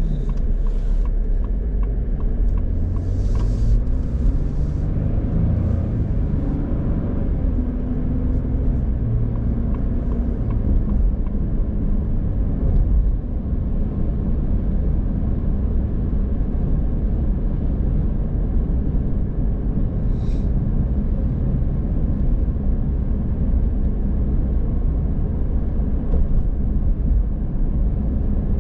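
A car driving on the road: a steady low rumble of engine and tyres. An engine tone climbs in pitch over the first ten seconds or so, and a brief hiss comes about three seconds in.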